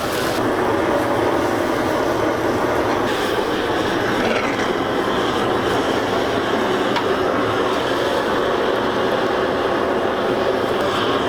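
Steady, rumbling rush of food cooking hard in a pot over a strong flame.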